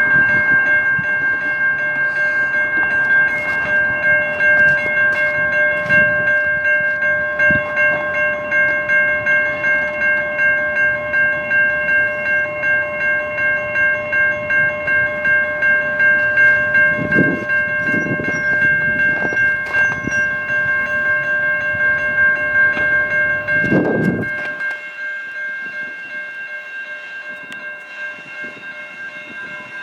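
A freight train rolling past, its rumble and wheel knocks under a steady ringing of several high tones that pulse a few times a second. About 24 seconds in the train rumble stops suddenly, leaving the ringing fainter.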